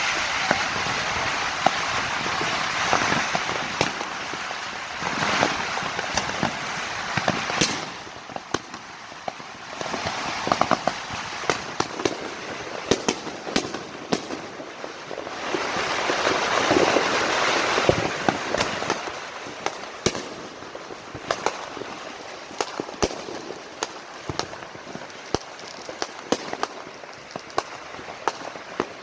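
Many fireworks and firecrackers going off all around. There is dense, continuous crackling for the first several seconds and again midway, with sharp single bangs scattered throughout.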